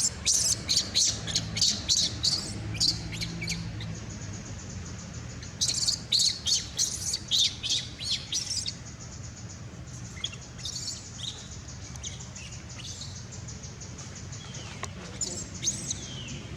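A baby monkey's high-pitched squeaking calls in quick runs: two loud runs in the first half, then fainter, sparser calls. A low steady hum runs underneath.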